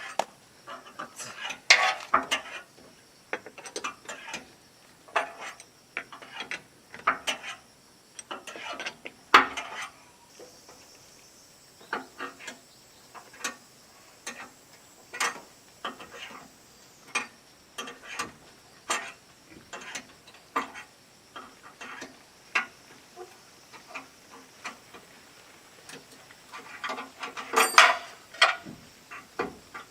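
Irregular clinks, clicks and clatter of metal hand tools and parts being handled, with a louder clattering burst about two seconds in, another near nine seconds and a third near the end.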